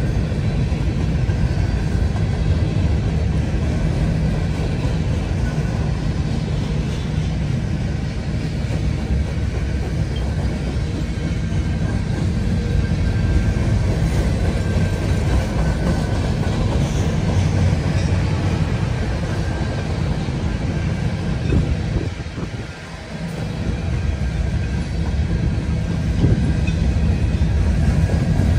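Freight train rolling past, its railcars' wheels making a steady low rumble on the rails, which dips briefly about three-quarters of the way through.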